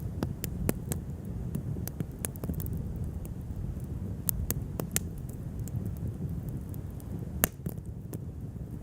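Wood fire burning: a steady low rumble with irregular crackles and pops of the burning wood, one sharper pop about seven and a half seconds in.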